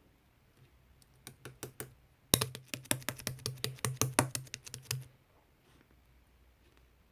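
Slime being pressed and squeezed by hand, giving sharp popping clicks: a few single ones about a second in, then a dense rapid run for nearly three seconds that stops suddenly.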